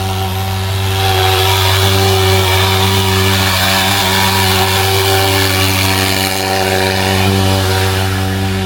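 Mosquito-fogging machine's engine running at a steady buzz, with a hiss of spray that gets louder about a second in.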